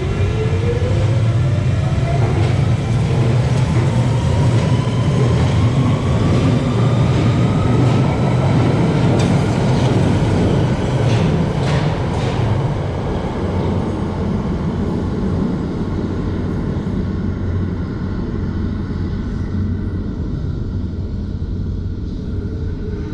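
London Underground Central Line train pulling away from the platform, its traction motors whining steadily upward in pitch over about ten seconds above the heavy rumble of wheels in the tunnel, with a few clacks near the middle. The sound then eases off a little as the train draws away.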